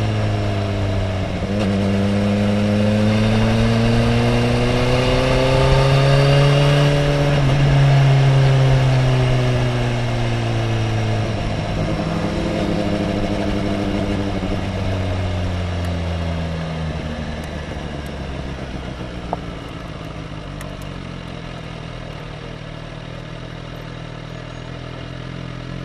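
Sport motorcycle engine recorded onboard while riding a racetrack. Its note climbs until about a third of the way in, then falls, dropping in distinct steps twice as the bike slows, and settles to a lower, quieter steady note for the last third.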